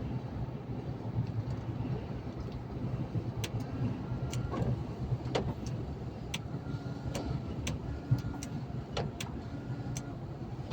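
Truck on the move: a steady low engine and road drone, with about a dozen sharp, irregular clicks and knocks scattered through the second half.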